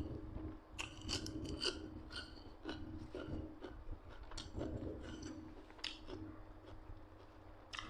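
A person chewing food close to the microphone: irregular small wet clicks and crunches of the mouth at work.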